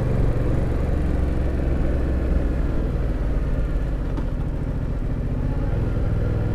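Yamaha FZ-07 parallel-twin engine running at low road speed under the rider. Its hum eases off around the middle and picks up again near the end.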